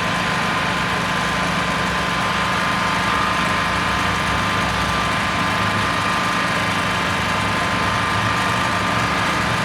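An engine idling steadily, a constant even hum with no change in speed.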